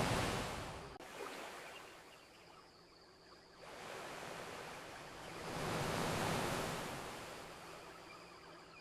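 Ocean waves washing onto a shore: one wave fades out in the first second, then another builds, peaks a little past halfway and recedes toward the end.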